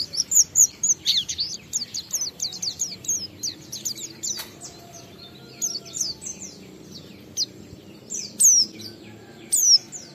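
A white-eye (pleci) singing: a rapid run of high, downward-sweeping chirps for the first few seconds, then looser phrases with a few loud, sweeping notes near the end. A single sharp click sounds about four and a half seconds in.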